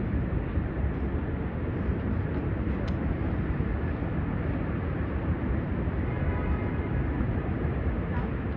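Steady low rumble of a busy city street, with traffic noise and no single event standing out.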